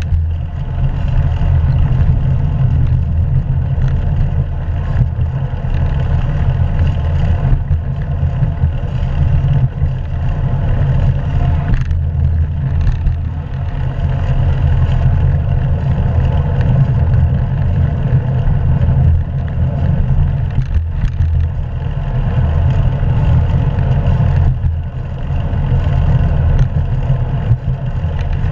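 Steady low wind rumble buffeting an action camera's microphone while riding a bicycle.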